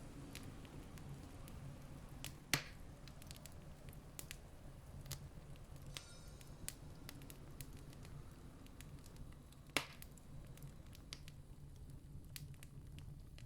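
Campfire crackling: scattered small snaps with two louder pops, about two and a half seconds in and near ten seconds, over a steady low rumble.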